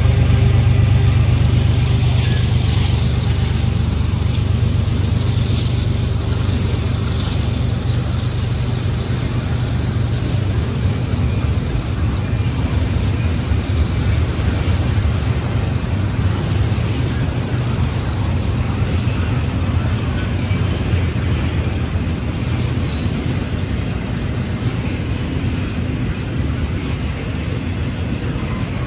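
Freight train passing: a steady low diesel rumble with the noise of rolling railcars, slowly fading.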